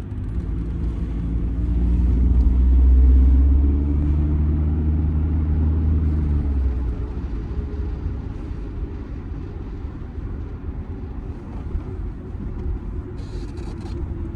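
Audi A6's 2.0 TDI four-cylinder diesel engine pulling under acceleration. Its low drone swells over a few seconds, then eases back to a steady rumble of engine and road noise.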